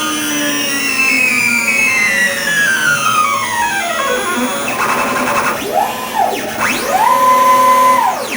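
Stepper motors of a CNC router whining as they drive a drag knife across vinyl, several tones gliding up and down in pitch as the moves speed up and slow down. The last move holds a steady tone, then stops suddenly as the cut finishes.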